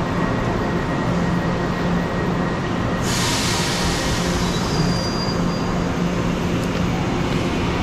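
Electric commuter train at a station platform giving a steady hum, with a sudden hiss about three seconds in that fades away over the next couple of seconds.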